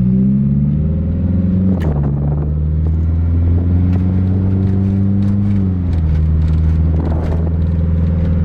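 Nissan 240SX's four-cylinder engine running on the road through a muffler-deleted exhaust with the catalytic converter still on. The note holds fairly steady, with a sudden drop in pitch about two seconds in and another near six seconds.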